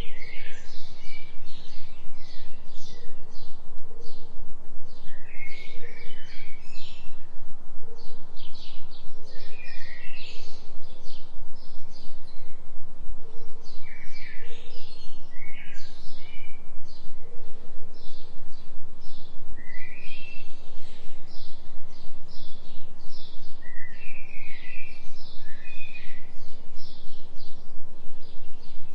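Many birds chirping and twittering in short, quick clusters of high calls, over a steady low hum whose loudness pulses rapidly and evenly: a delta-frequency binaural tone.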